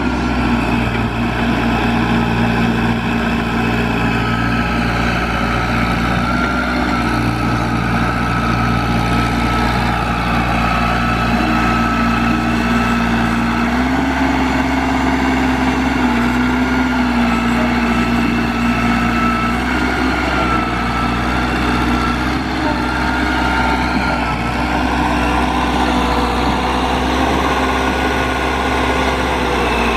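Case DH4 articulated trencher's engine running steadily, its speed drifting slightly up and down.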